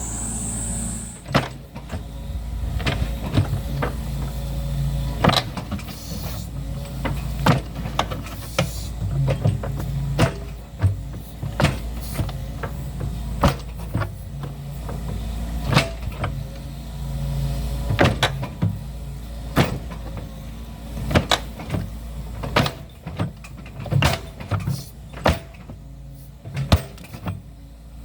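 Diesel excavator working earth: the engine runs steadily, rising and falling in pitch as it takes load. Sharp clanks and knocks come every second or two, and come faster near the end.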